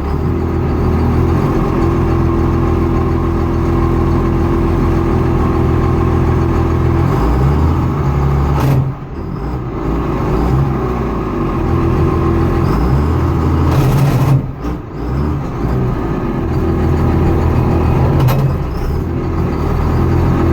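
Vehicle engine running with a grinding noise, its pitch shifting a few times, and dropping away briefly about nine and fourteen seconds in.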